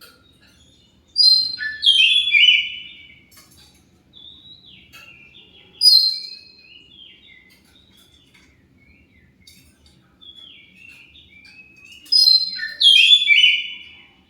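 Oriental magpie-robin (kacer) singing: loud bursts of quick whistled notes that step downward, near the start, about six seconds in and near the end, with softer warbling phrases between.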